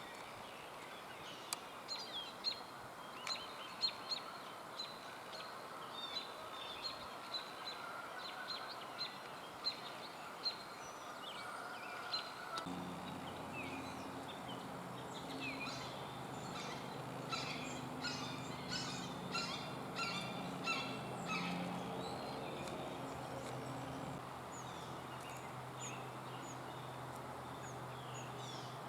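Wild birds calling: many short, high chirps repeated throughout, busier in the second half. A steady low hum comes in about twelve seconds in.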